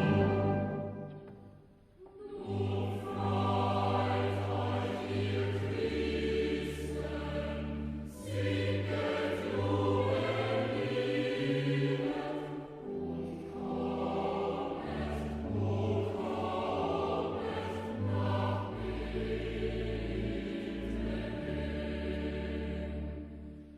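Choir singing a Christmas song with instrumental backing and a steady bass line. One song fades out at the start, and a new one begins about two seconds in.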